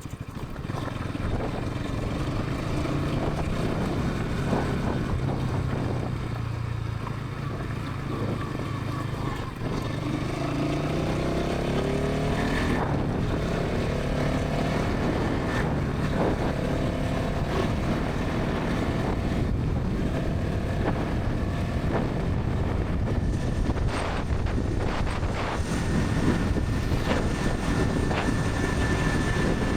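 Bajaj Pulsar NS 200's single-cylinder engine and exhaust running under way at speed, with wind rushing over the microphone. About ten seconds in, the engine note climbs for several seconds as the bike accelerates.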